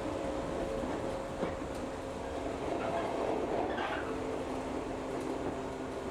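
Running noise of a local electric train heard from on board: wheels on rail with a steady hum and a couple of short clicks about a second and a half in.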